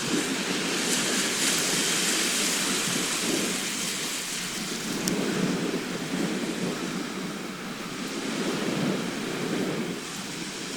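Sea surf washing onto a shore, a steady rush of water that swells and eases every few seconds as waves break and draw back.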